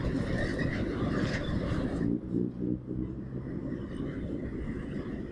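Road traffic noise: a dense rumbling rush of passing vehicles, with a vehicle engine's low steady hum standing out briefly about two seconds in.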